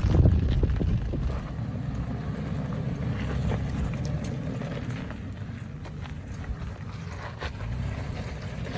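2018 Toyota 4Runner TRD Off-Road's V6 running steadily as it drives an off-road trail, a low rumble that is heavier for the first second or so and then evens out. A few scattered clicks and knocks sound over it.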